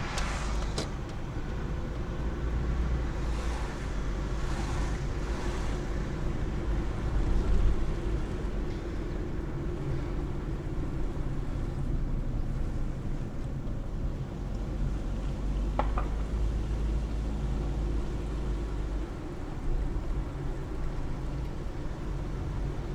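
Car driving along a road, heard from inside: a steady low rumble of engine and tyre noise, with a few brief swells of hiss in the first several seconds.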